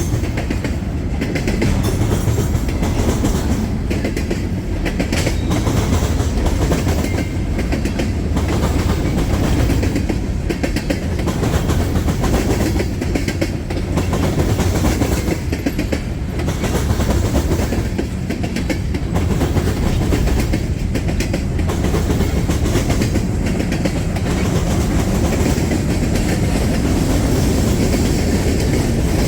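Freight cars of a CSX local train rolling past in a steady rumble, with repeated clicks of the wheels over the rail joints.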